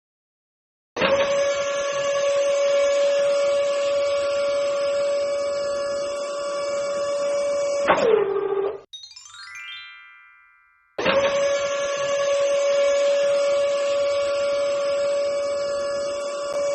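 A small motor on a DIY mini tractor model runs at a steady high whine. About eight seconds in it cuts off and winds down in pitch. A short rising sweep of tones follows, then the motor starts again and runs steadily.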